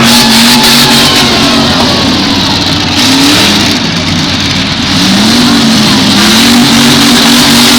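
Demolition derby car engines running loud and revving, their pitch rising and falling several times.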